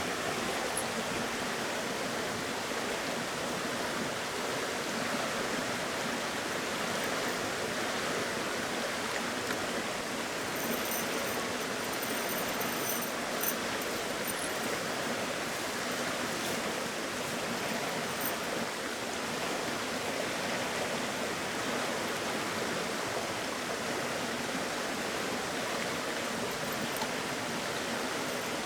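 Steady rushing of flowing stream water, running evenly without a break.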